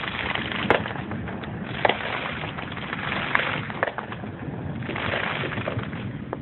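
Scattered sharp pops of distant fireworks, several over a few seconds, over a continuous low rumble of rolling thunder.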